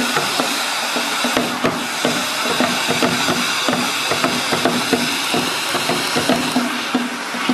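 Hand-held bamboo tezutsu fireworks spraying sparks: a loud, steady rushing hiss with many irregular crackles and knocks through it.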